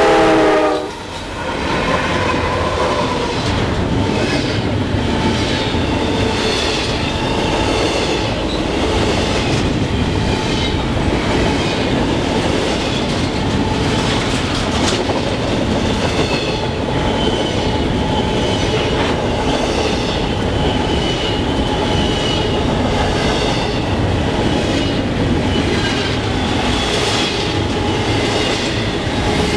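Double-stack intermodal freight train passing close by, hauled by GE diesel locomotives. The locomotive horn cuts off about a second in, then the well cars roll past with steady wheel clatter, a low rumble and thin, high wheel squeals.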